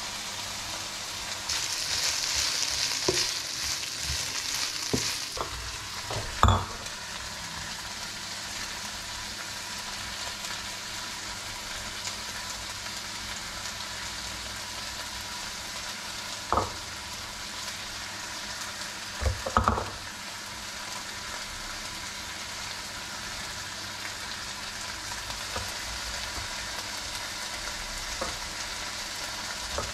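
Steady sizzling of food frying in a pan, louder for a few seconds near the start. Over it come a few short sharp knocks and clicks from a knife and spoon working an avocado over a small metal bowl.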